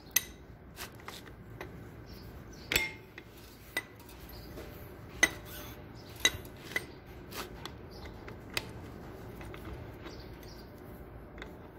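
Irregular sharp metallic clinks and taps of a hand tool, a 14 mm wrench or socket, against engine bolts and metal parts as the engine is being unbolted. The strongest clinks come near the start, at about three seconds and about five seconds in.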